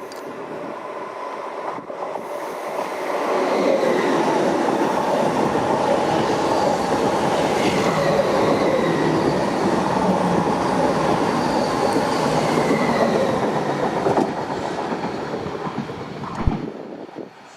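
Train passing through the station, growing to full loudness about three seconds in and dying away near the end, with wheel clatter on the rails and faint wheel squeal.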